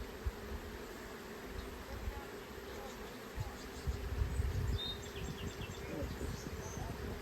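Honeybees buzzing steadily around an open hive during an inspection. Low, irregular bumps and rumbles come through near the middle.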